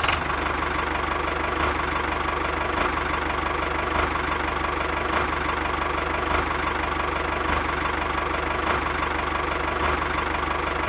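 Mini tractor's engine idling steadily, with a fast, even knocking beat that holds constant.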